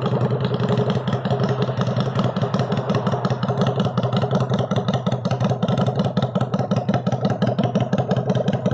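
Suzuki Intruder 250's V-twin engine idling steadily, with a rapid even pulse and no revving.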